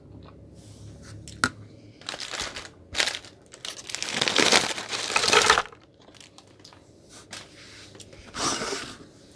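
Takeout food packaging crinkling and rustling in several bursts, the longest and loudest about four to six seconds in, with a sharp click about a second and a half in.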